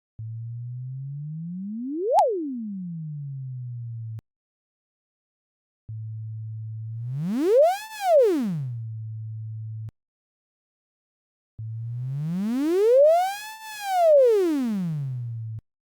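Computer-synthesized tones sonifying mathematical functions, pitch following the function's value: three separate tones of about four seconds each. The first holds low and steady, then sweeps sharply up to a high peak and straight back down. The second and third rise and fall in smooth arches, the last one wider, turning brighter near the top and dipping in loudness at the crest.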